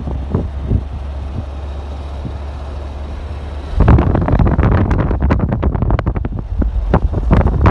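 Wind buffeting the microphone over a steady low rumble, with the gusts suddenly much louder and choppier about four seconds in.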